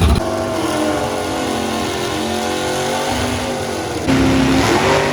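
A car engine revving, its pitch drifting down and back up; about four seconds in it gets louder and the pitch rises again.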